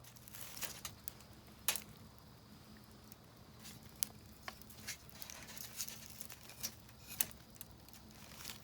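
Wood fire crackling in a Picogrill fire pit, with irregular sharp pops over softer crackle.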